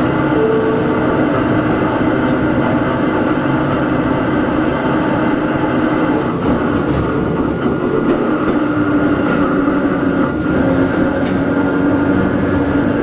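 Hakone Tozan Railway Moha 1 electric car No. 106 running, its nose-suspended SE121-A traction motors and gearing giving a steady whine over the wheel-and-rail noise.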